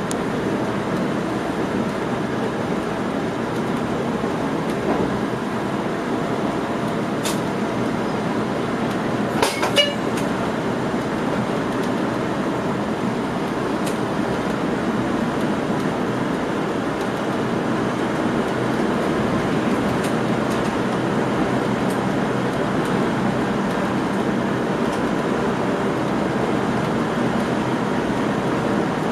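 Steady running noise of a moving train heard inside the driver's cab, with a brief sharp click about seven seconds in and a short cluster of clicks around ten seconds in.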